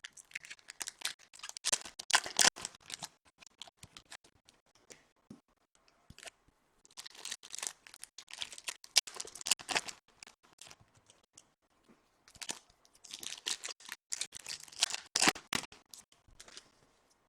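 Trading-card packaging being torn open and crinkled by hand, a 2014 Topps Chrome box and its packs. There are three bursts of crackling, at the start, near the middle and toward the end, with quieter handling between.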